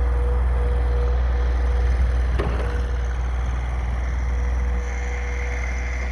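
A snow-plowing vehicle's engine running steadily with a low rumble and a steady hum, and a single knock about two and a half seconds in.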